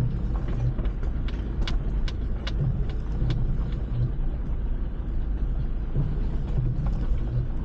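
Car cabin rumble as the car moves slowly over rough, rocky ground, with a few short sharp clicks in the first half.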